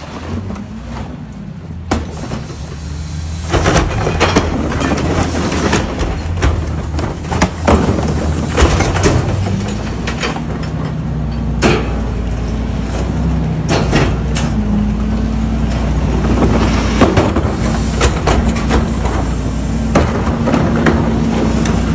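Recycling truck's engine running, getting louder about three and a half seconds in, with many sharp clanks and knocks over it.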